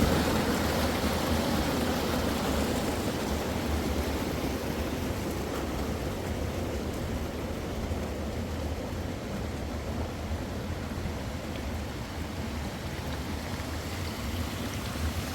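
Steady rush of a flowing stream, gradually getting quieter.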